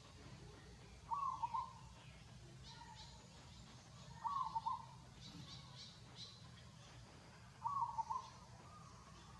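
An animal's short call, repeated three times about three seconds apart.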